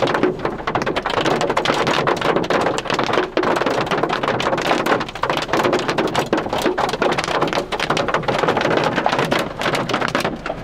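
Heavy storm rain driven by strong wind during a mini tornado, a loud, dense clatter of drops striking surfaces without let-up.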